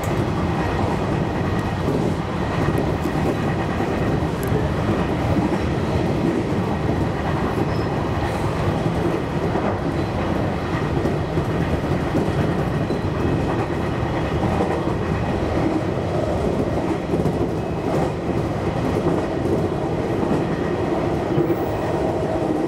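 JR Kyushu 813 series electric multiple unit running steadily at speed, heard from inside the front of the train: a continuous rumble of wheels on rail with no break or sudden event.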